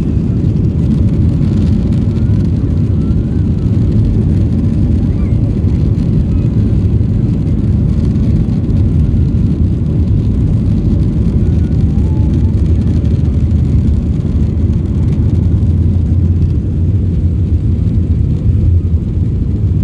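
Boeing 737 jet engines running at takeoff power, a loud, steady low rumble.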